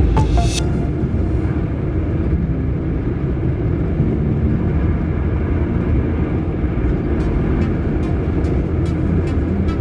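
Car driving: a steady low rumble of engine and road noise, with a sharp click about half a second in and faint regular ticking near the end.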